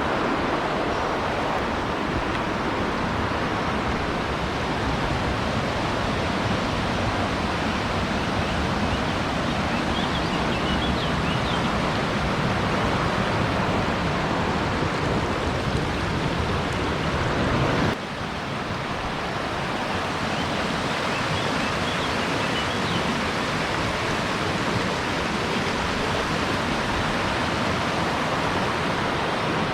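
Rushing water, a steady even roar with no rhythm, broken by a sudden dip about eighteen seconds in before it builds back.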